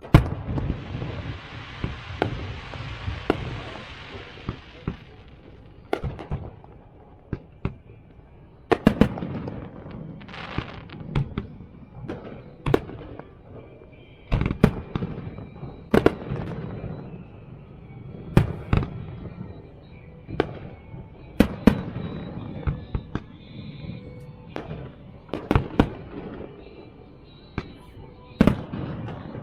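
Fireworks display: aerial shells bursting in a string of sharp bangs, irregular, often one to three a second. In the first few seconds a dense crackling hiss runs under them.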